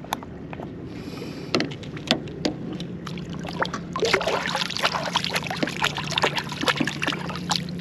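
Water splashing and lapping against a small boat's hull, with scattered knocks and clicks, busier from about halfway through, over a steady low hum.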